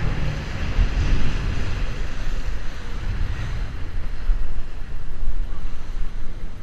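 Wind buffeting the microphone over a steady rush of wind and water around a small boat at sea.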